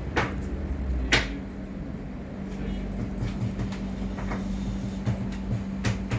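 A few sharp knocks and clicks from hand work on the engine, the two loudest close together near the start, over a steady low hum.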